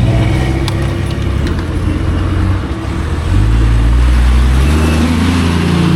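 Vehicle engine running, then building revs as it pulls away; its note climbs in steps about three seconds in and again near the end.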